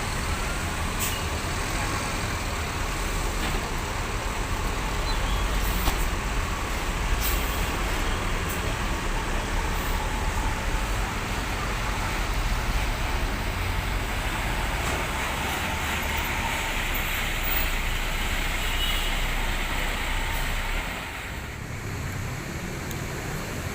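Large diesel bus engines running close by amid road traffic, a steady low rumble with a few short sharp sounds over it; the rumble eases off near the end.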